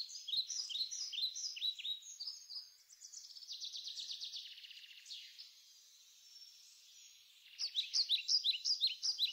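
Birds chirping: a string of short, high falling chirps, a buzzy trill a few seconds in, a pause, then a faster burst of chirps near the end.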